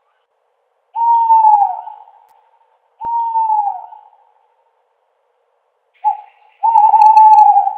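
Owl hooting: two hoots about a second long, each dropping in pitch at the end, then after a pause a short hoot and a longer wavering one near the end.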